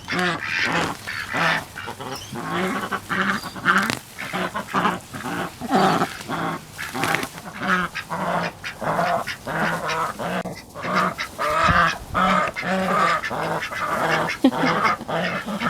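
Flock of domestic ducks (Pekin, Rouen, Silver Appleyard and Cayuga breeds and crosses) quacking continuously, many short quacks overlapping one after another.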